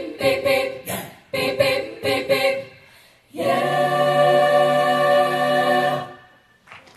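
High school vocal jazz choir singing a cappella: a run of short, detached chords, then a long held final chord that begins about three seconds in and is cut off together about three seconds later.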